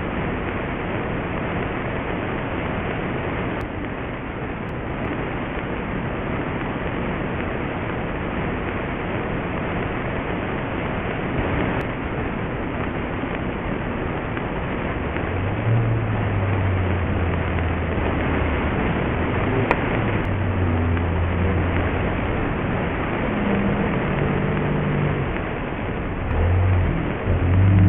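A steady rushing noise throughout. From about halfway a low, steady car-engine hum comes in and grows louder near the end.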